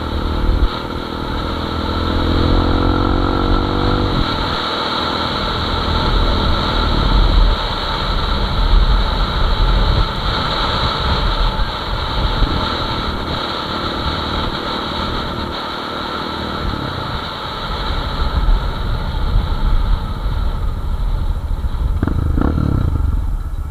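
Motorcycle engine under way, revving up in pitch for about four seconds, then dropping and running on more steadily, with another brief rise near the end; steady riding noise throughout.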